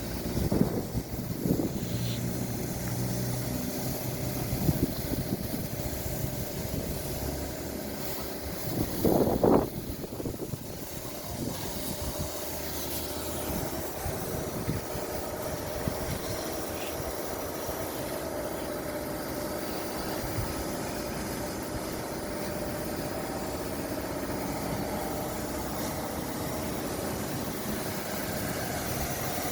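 A motor or engine running steadily, with a short louder surge about nine seconds in.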